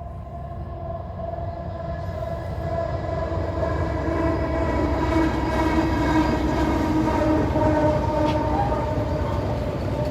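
A diesel freight locomotive approaching along the line, its engine drone and rumble growing steadily louder.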